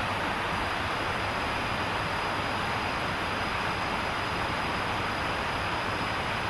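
Steady, even rushing of water from heavy rain and a swift-flowing river, with no breaks or changes.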